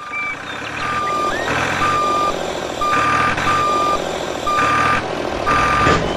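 A vehicle's reversing alarm beeps a single steady tone about once a second, over a constant engine rumble.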